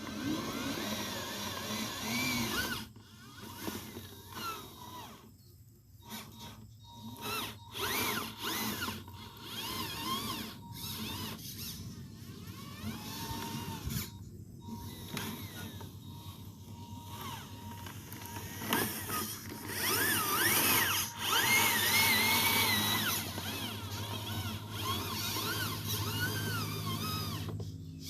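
Small electric motor and gears of an RC 6x6 truck whining, the pitch rising and falling in quick glides as the throttle goes up and down.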